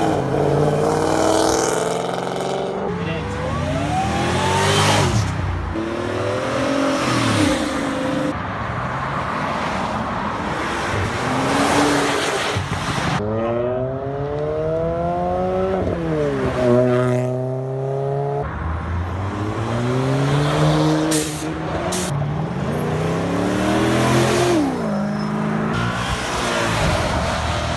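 Several cars accelerating hard one after another, engines revving up with rising pitch and dropping back at each gear change, overlapping as they go by.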